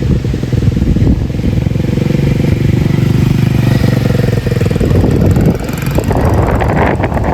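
Small mini bike engine running steadily, then turning rougher and noisier about five seconds in.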